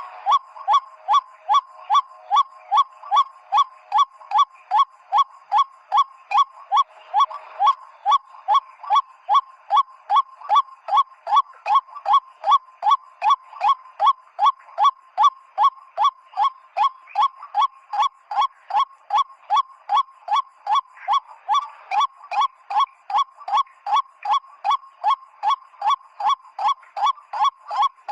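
A PVC-pipe whistle lure sounding the 'ruak' call of the white-breasted waterhen. Short, slightly falling honking notes repeat evenly a little over twice a second, without a break.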